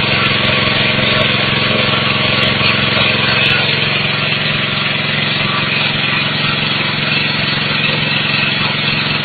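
Vertical pellet mill running, a steady machine drone with an even low hum and no change in speed.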